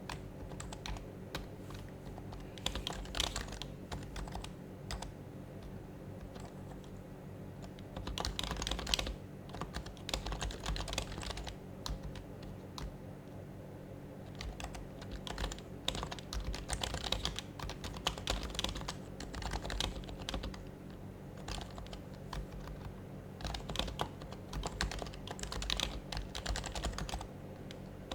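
Typing on an HHKB Professional HYBRID Type-S keyboard, its silenced Topre keys clacking softly in irregular bursts with short pauses between them, over a steady low hum.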